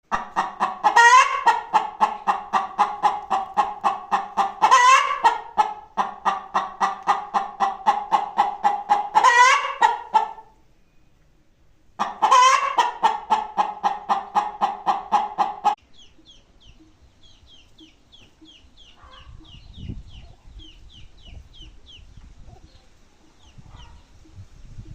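Free-range hen cackling: a quick run of clucks, about three or four a second, punctuated every few seconds by a louder drawn-out squawk. The cackle pauses for a moment about ten seconds in, resumes, and stops about sixteen seconds in, leaving faint high chirps.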